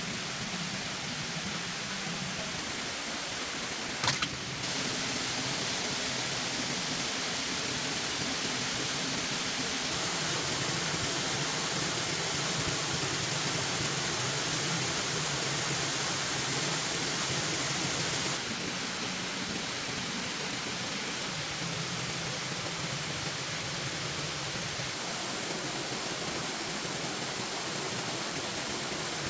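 Steady rushing noise with no distinct events, stepping up and down in level a few times, with one sharp click about four seconds in.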